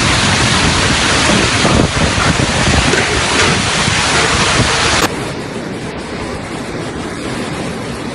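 Loud, steady rushing noise of a storm, with wind buffeting the microphone. About five seconds in it cuts abruptly to a quieter rushing.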